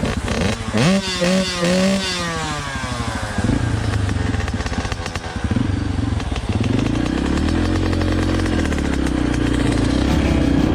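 Dirt bike engines revving. One climbs in pitch about half a second in, holds briefly, then winds down; later an engine swells and fades again.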